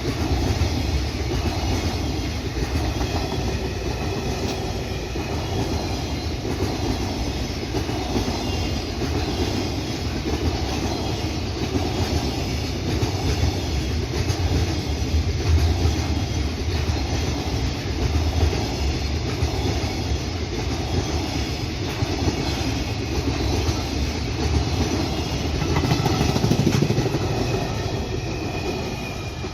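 Long freight train rolling past, its wagons' wheels clattering over the rail joints in a steady run; the noise begins to fade near the end.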